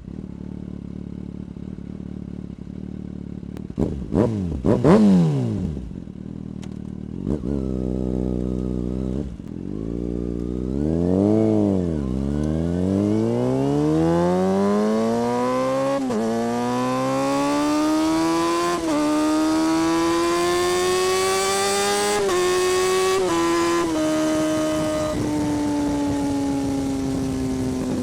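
2017 Kawasaki Ninja ZX-6R's inline-four engine and exhaust: idling with a couple of sharp throttle blips, then revving and pulling away. It accelerates through several upshifts, each a brief dip in pitch, and settles into a steady cruise near the end.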